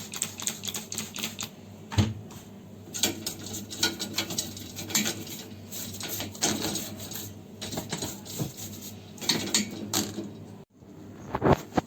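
Dishwasher's plastic spray arm being scrubbed clean of leftover food and handled: quick, irregular scratching and clicking, with a louder knock about two seconds in and a few more near the end.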